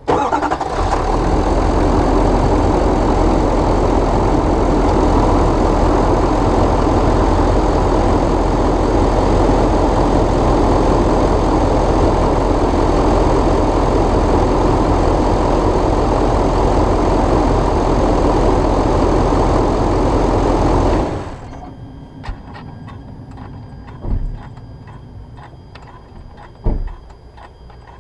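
2016 GMC Sierra 3500HD's Duramax LML 6.6-litre turbodiesel V8 starting up and idling steadily, run just long enough to fill the new, empty oil filter after an oil change. It is shut off suddenly about three-quarters of the way through, followed by a few short knocks.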